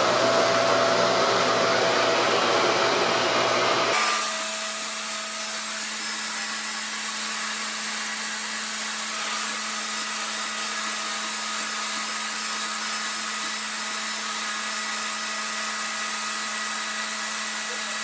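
RevAir reverse hair dryer running, its motor pulling air through the hose with a steady rushing whine. About four seconds in the sound drops abruptly to a quieter, steady hum.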